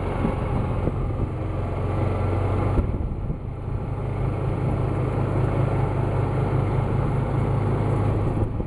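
Golf cart driving along: a steady low motor hum with tyre and wind noise.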